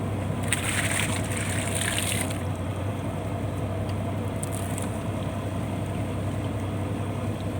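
Fishing boat's engine running steadily, with a burst of rushing, splashing water for about two seconds near the start.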